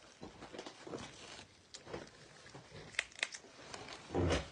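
Crab-leg shells being cracked and pulled apart by hand: scattered sharp snaps and clicks, a quick cluster about three seconds in, then a louder thump near the end.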